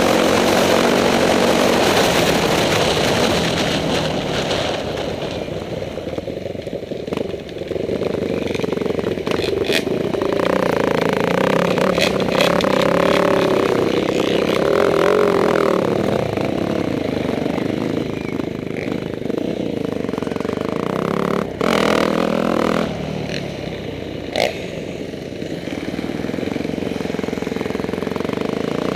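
Motorcycle engines running and revving, their pitch rising and falling as the riders change speed, with a few sharp clatters in between.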